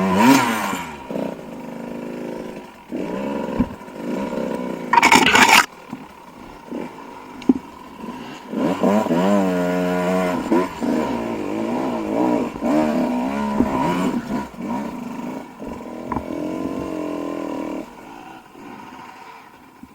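Dirt bike engine revving up and down as it is ridden, its pitch rising and falling repeatedly. There are two short, loud bursts of noise, one near the start and one about five seconds in.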